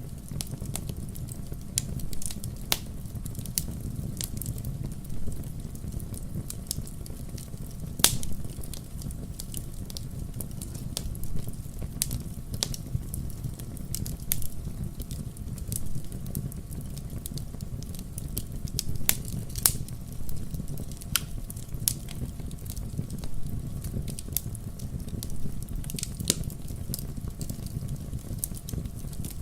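Wood fire crackling in a fireplace: irregular sharp pops and snaps over a steady low rumble of the flames, with a louder pop about eight seconds in.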